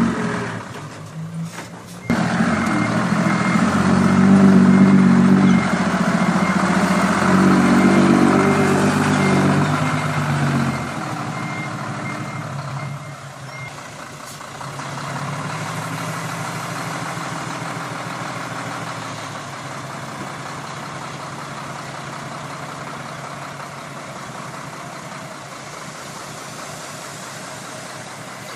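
Dump truck's diesel engine running hard with its reversing beeper sounding, then about eleven seconds in the engine drops to a quieter, steady running and the beeping stops shortly after.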